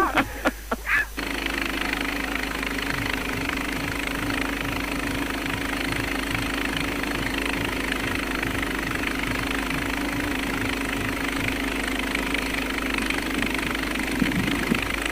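An engine running steadily, with a low throb repeating a few times a second under a steady hiss.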